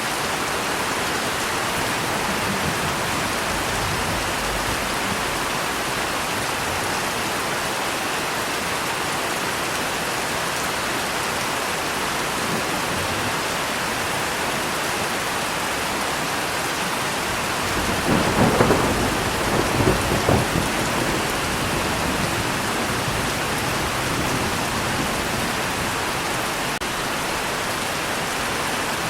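Steady heavy rain with a roll of thunder that swells up about two-thirds of the way through, rumbling for about three seconds, then fades back into the rain.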